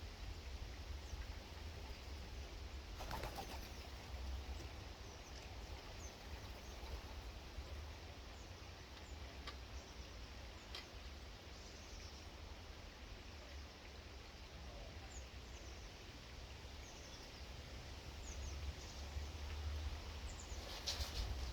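Birds at a feeding station: short bursts of wingbeats as birds fly in or off, about three seconds in and again at the end, with brief high chirps scattered through, over a low steady rumble.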